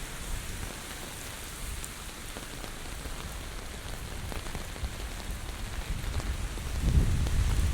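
Heavy typhoon rain falling steadily, with a gust of wind buffeting the microphone about seven seconds in.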